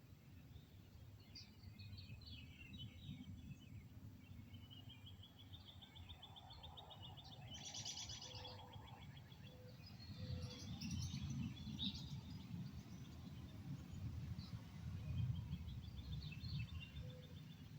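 Several small birds chirping and singing, with a fast, even trill about seven seconds in, over a low rumble that swells in the second half.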